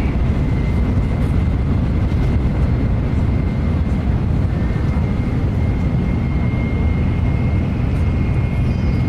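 Tokaido Shinkansen running at speed, heard from inside the passenger cabin: a steady low rumble and rushing noise, with a faint high whine held steady through it.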